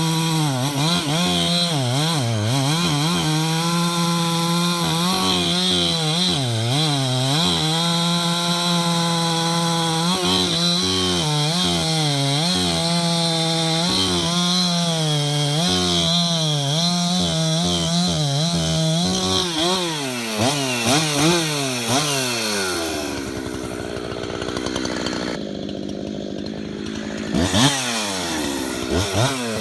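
Husqvarna 372XP two-stroke chainsaw running at high revs, the engine pitch dipping and picking back up again and again as it bucks large Douglas fir. A little after twenty seconds it drops to idle, then revs up again near the end.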